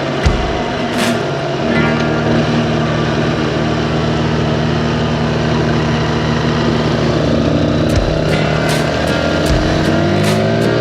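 Honda XR150L's single-cylinder engine running on the move, holding a steady speed and then revving up near the end.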